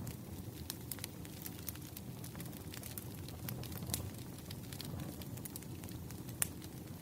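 Wood fire in a fireplace crackling: a steady low rumble of flames with scattered sharp pops and snaps, the loudest about six seconds in.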